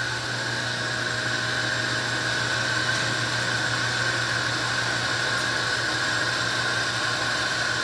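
A small electric motor running steadily: an even whine with a low hum and hiss.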